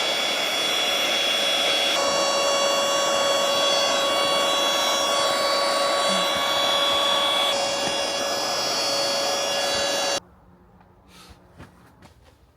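A small electric motor running with a steady whine and rushing air, switched off abruptly about ten seconds in.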